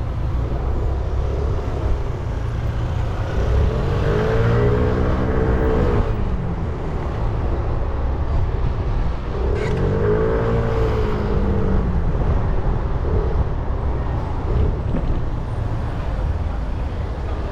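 300 cc motorcycle engine running under way, with steady wind rush on the microphone. The engine revs up and eases back down twice, about four seconds in and again about ten seconds in.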